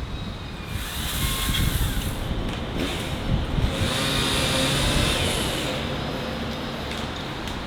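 Tractor engine running, growing louder over the first few seconds and then easing off, with two spells of high hiss over the engine.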